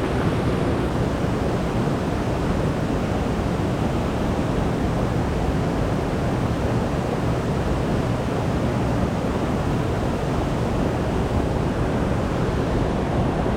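Steady rushing noise of moving water, with wind on the microphone.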